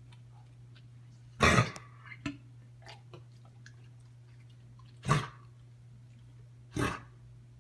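A dog coughing: three short coughs a few seconds apart, the first and loudest a double hack.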